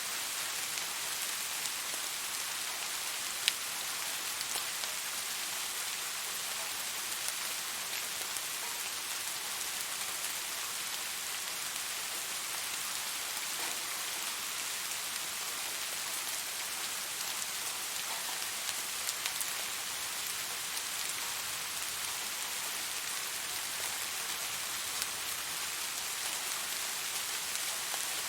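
Steady rain falling, an even hiss with scattered single drops ticking through it. One sharper drop stands out about three and a half seconds in.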